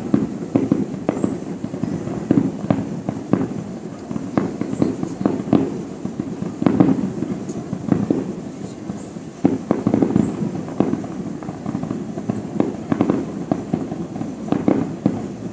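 Fireworks display going off in a continuous, irregular run of bangs, several a second.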